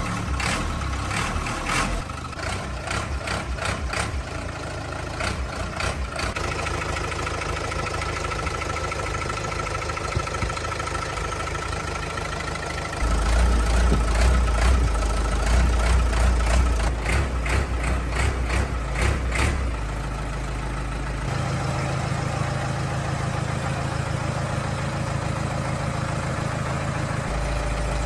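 Truck engine running after repair, idling with a rough, uneven note; partway through it runs louder and deeper for several seconds before settling back to a steady idle.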